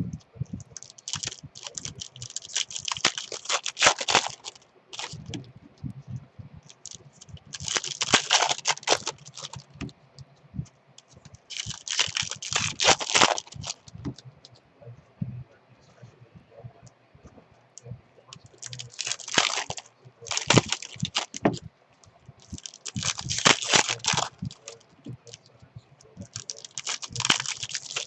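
Trading card pack wrappers being torn open and crinkled by hand, in short crackly bursts every few seconds.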